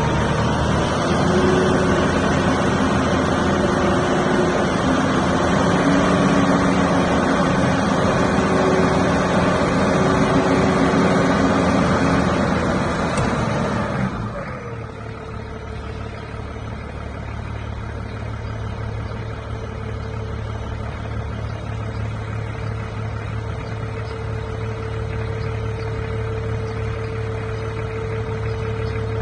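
Mitsubishi S6S inline-six diesel engine of a 5-ton forklift running at raised revs, then dropping back to a steady idle about halfway through. A thin steady whine sounds over the idle.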